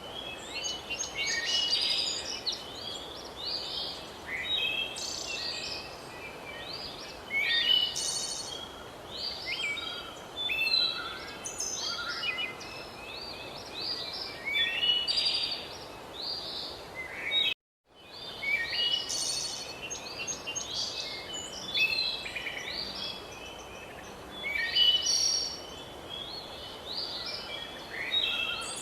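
A chorus of many birds chirping and trilling over one another against a steady background hiss. The sound cuts out completely for a split second a little past halfway through, then resumes.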